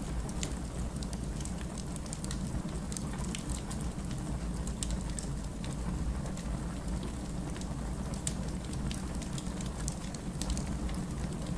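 Wood fire burning in a fireplace: a steady low rumble of flames with scattered, irregular sharp crackles and pops from the logs.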